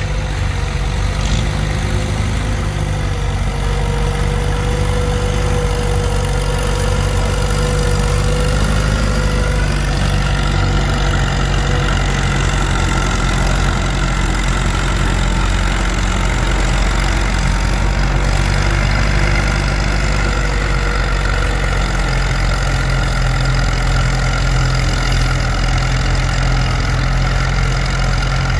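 Farm tractor engine running loud and steady, its pitch rising slightly about ten seconds in.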